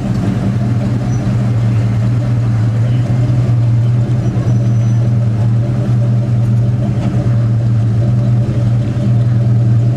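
Car engine idling steadily with a constant low hum and no revving.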